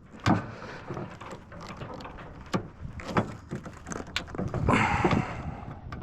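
Metal clicks and knocks from the cab-tilt lock lever of an Isuzu FRR cab-over truck being worked, with a longer rattling scrape near the end. The lock is being tried with its safety pin still in place.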